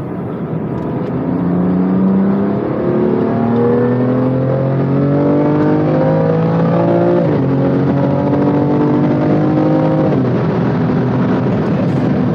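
BMW M2 Competition's twin-turbo inline-six accelerating hard, heard from inside the cabin. The engine note rises through a gear, drops sharply at an upshift about seven seconds in, and climbs again before falling off about ten seconds in.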